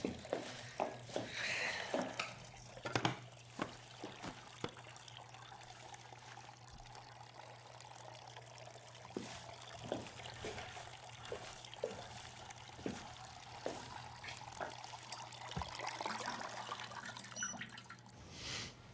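Water being poured and trickling into a pot in a kitchen, with light clinks and knocks of utensils and cookware throughout.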